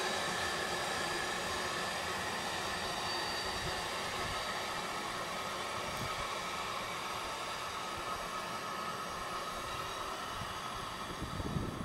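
Passenger train rolling away down the track: a steady rumble and hiss of the coaches, with a few faint high steady tones, slowly fading as it recedes. A louder low rumble comes in right at the end.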